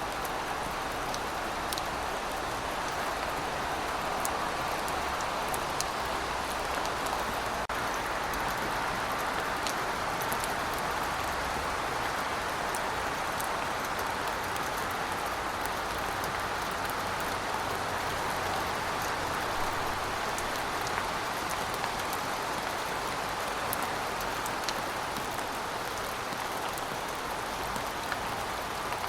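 Steady rainfall: an even hiss of rain with scattered sharp drip ticks on top.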